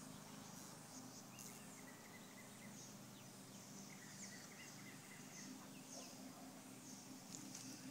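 Near silence: faint outdoor ambience with scattered distant bird chirps and quick high calls over a low steady hum.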